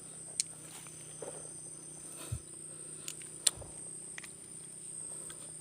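Forest insects chirring in a steady high-pitched drone, with a few sharp clicks and soft knocks of handling noise.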